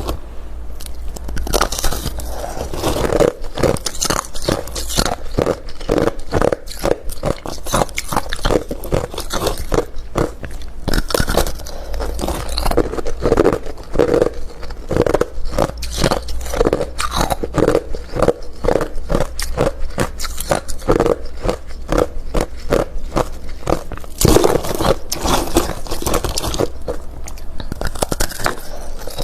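Hard refrozen crushed ice being bitten and chewed close to the microphone: a continuous run of rapid crunches and cracks.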